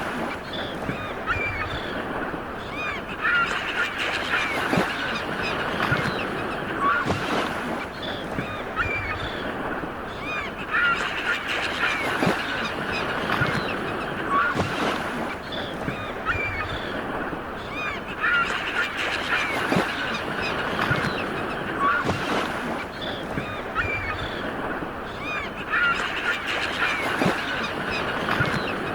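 Sea waves washing on a shore under a flock of birds calling, many short calls bunched together in clusters that come back about every eight seconds.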